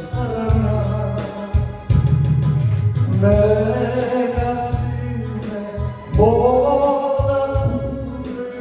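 A song: a voice holding long sung notes, one about three seconds in and another about six seconds in, over a full, steady instrumental accompaniment with a strong bass.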